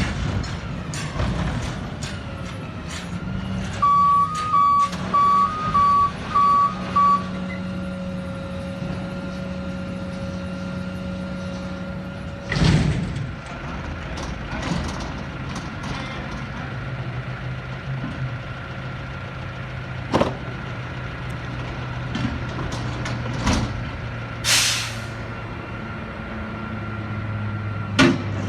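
Autocar ACX front-loader garbage truck running. Its reversing alarm beeps six times, starting about four seconds in. Its air brakes hiss twice, near the middle and again later, and there are a few sharp clanks.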